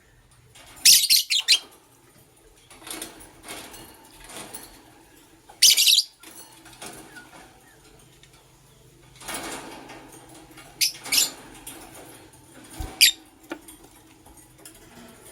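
Lovebirds giving short, loud chirps in about five bursts, with quieter chatter in between.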